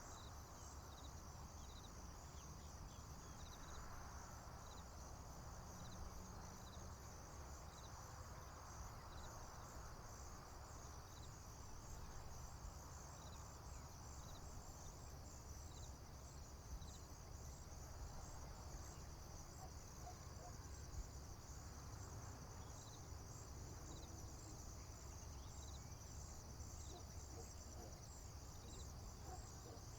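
Faint, steady chorus of crickets and other insects chirping in a field, with separate chirps about once a second, over a low steady rumble.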